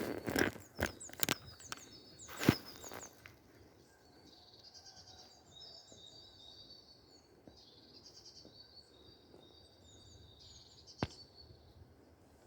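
Small songbirds singing, with repeated high chirps and short trills. A few sharp knocks and rustles come in the first seconds, one loud knock among them, and a single click comes near the end.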